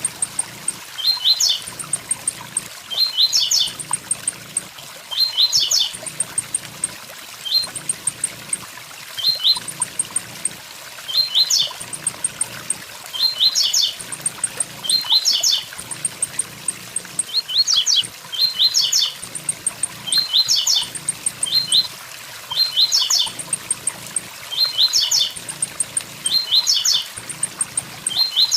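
Blue-black grassquit (tiziu) singing its 'tui tui zel zel' song: short phrases of two to four quick, high notes, repeated about every one to two seconds. A steady waterfall rush runs underneath.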